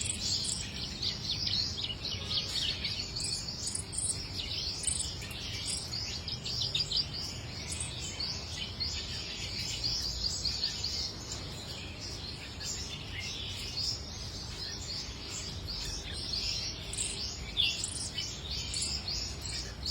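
A small warbler, the Vietnamese 'chích nâu' (brown warbler), singing: a continuous run of quick, high chirps and short trills with hardly a pause.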